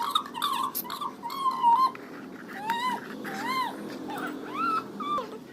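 A dog whining: a run of short, high whimpers that rise and fall in pitch, quick and close together at first, then slower separate whines.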